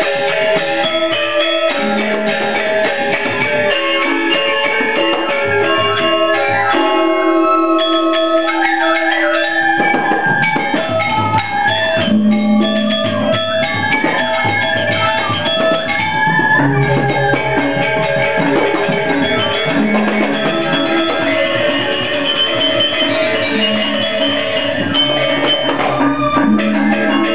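Balinese gamelan orchestra playing live, dense ringing bronze metallophone patterns over drums. About seven seconds in the texture thins to a few held tones, and the full ensemble returns about ten seconds in.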